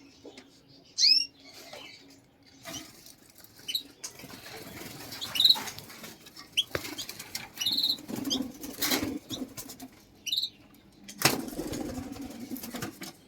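Small cage birds chirping in short calls, amid repeated bursts of wing flapping and rustling, the loudest about a second in and again near the end.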